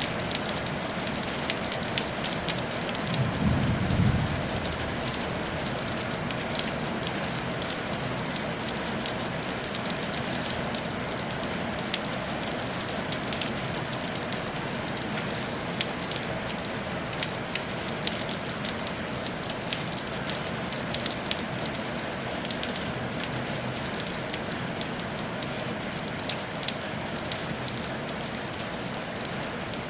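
Steady rain falling on a tile roof, a dense patter of individual drops over a constant hiss. A brief low rumble swells and fades about three to four seconds in.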